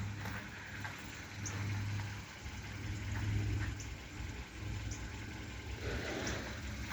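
Car engine idling, a low steady hum heard from inside the car.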